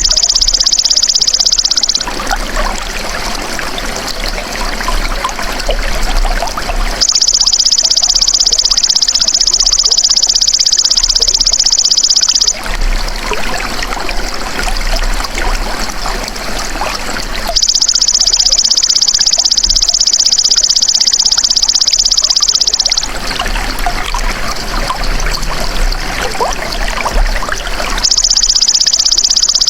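A belalang emas ('golden grasshopper') insect's song, a loud, even, high buzzing trill, takes turns with stretches of trickling water. Each switch comes about every five seconds: the insect is heard at the start, the water comes in about two seconds in, and the two swap four more times.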